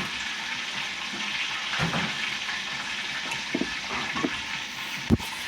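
Hot cooking oil sizzling in a pot with a steady hiss, hot and ready for frying. A few light knocks and a sharp thump about five seconds in.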